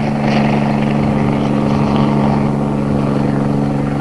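Helicopters taking off, their engines and rotors making a steady drone with a constant pitch.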